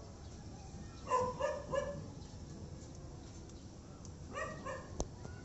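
An animal giving two quick runs of three short, pitched calls, about three seconds apart, followed by a single sharp click near the end.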